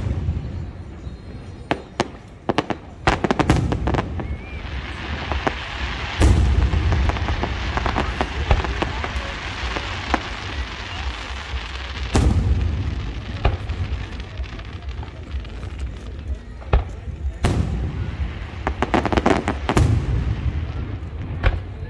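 Aerial fireworks display: repeated booms of shells bursting, with a long stretch of crackling from about five to twelve seconds in and quick clusters of bangs a few seconds in and near the end.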